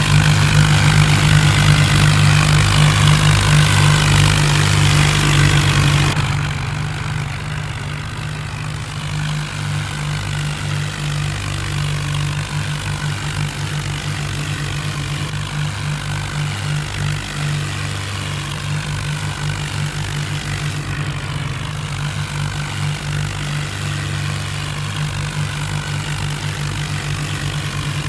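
A vehicle engine running steadily. It is louder for the first six seconds, then drops to a lower, even level.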